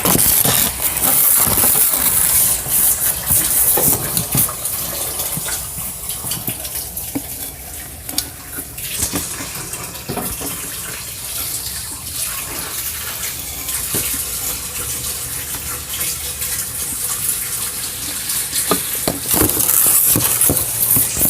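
Water running steadily from a kitchen tap into a sink, with scattered light clicks and rustles throughout.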